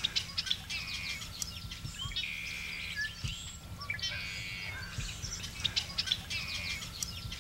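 Several songbirds singing: many short chirps and a quick trill phrase that comes round several times, over a low steady hum.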